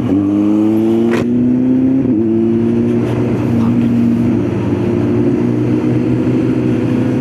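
Kawasaki Z900 inline-four engine pulling under acceleration, revs climbing and dropping with upshifts at the start and about two seconds in, then holding a steady, slowly rising note. A sharp click about a second in.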